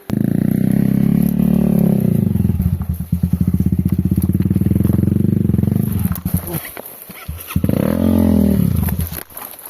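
Off-road motorcycle engine running hard under load: it comes in suddenly, holds for about six seconds with a pulsing, chugging beat partway through, then drops away. Near the end it gives one short rev that rises and falls.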